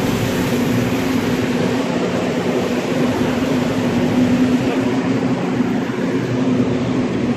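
Metra commuter train standing at the platform with its doors open, humming steadily: an even drone with one low held tone running through it.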